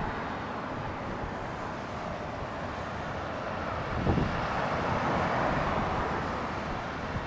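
Strong wind rushing over the microphone, a steady noise that swells about four seconds in.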